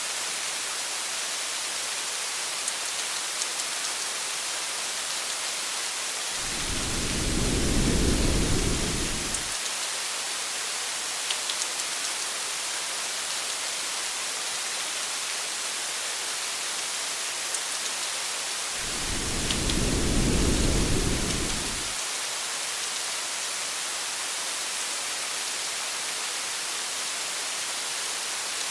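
Steady rain hiss with scattered faint drop ticks. Two low rolls of thunder, each lasting about three seconds, swell up about six seconds in and again about nineteen seconds in.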